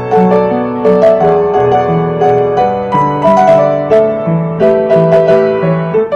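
Background piano music: a steady melody over a low bass line, notes changing several times a second.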